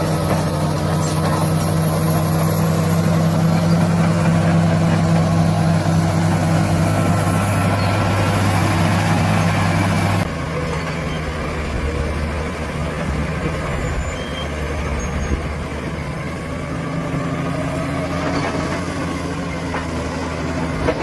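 Heavy diesel engine of a bulldozer running steadily. About halfway through the sound changes abruptly to a lower, rougher hum.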